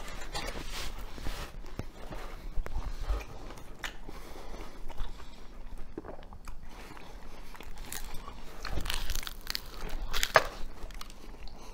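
A man chewing and biting into a sandwich close to the microphone: irregular smacking and clicking mouth sounds. They grow louder about nine to ten seconds in.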